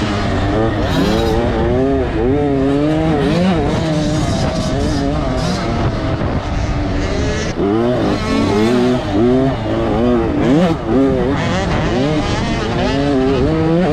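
Motocross dirt bike engines revving up and dropping off again and again as the throttle is worked. In the second half the pitch sweeps overlap, as if more than one bike is running.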